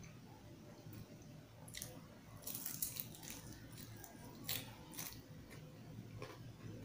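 Close-up mouth sounds of biting and chewing homemade spicy fried chicken: crisp crunches and wet crackles come in clusters, loudest about two and a half to three seconds in and again around four and a half seconds.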